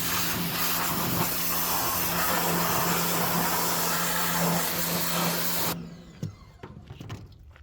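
Pressure washer spraying: a steady motor hum under a loud hiss of water, cutting off suddenly almost six seconds in, after which only faint clicks remain.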